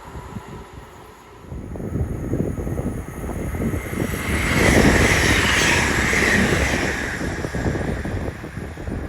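An electric train passing at speed: rumble and rail hiss build up, peak loudly for a couple of seconds in the middle, then fade as it goes by.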